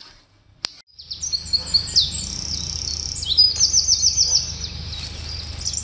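Songbirds singing: quick high chirps and downward-sliding whistles, with a fast run of repeated notes about halfway through, over a steady low rumble. A single sharp click comes just before the birdsong starts.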